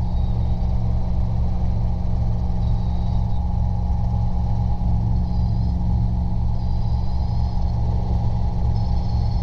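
Robinson R22 helicopter heard from inside the cockpit in steady powered flight: engine and two-blade main rotor giving a loud, even drone with a steady low beat from the rotor.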